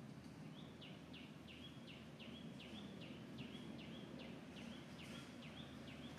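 A bird calling: a short, high note repeated steadily about two and a half times a second, over faint low outdoor noise.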